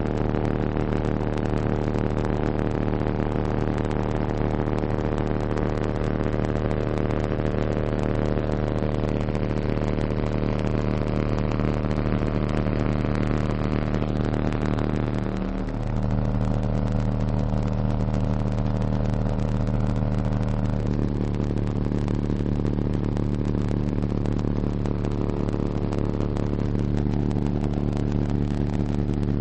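Two RE Audio MX15 15-inch subwoofers in a ported enclosure playing a low test tone of about 33–35 Hz at high power. The tone is loud and steady, heavily overdriven on the recording, with strong overtones stacked above it. The sound briefly dips and changes about halfway through, and changes again about two-thirds of the way in.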